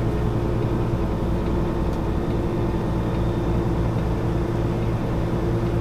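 Semi-truck's diesel engine running steadily at low speed, heard from inside the cab.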